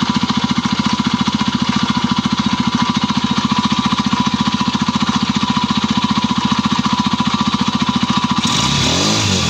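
Small four-stroke engine, treated with an RVS additive for a knock, running steadily with an even rapid beat; the heavy anvil-like knock is gone, though a light scraping remains. Near the end its sound changes, briefly rising and falling in pitch.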